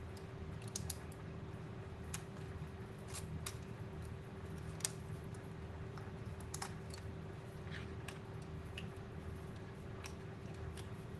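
Scattered light clicks and taps at irregular intervals, from hands handling laptop parts and small tools during reassembly, over a steady electrical hum.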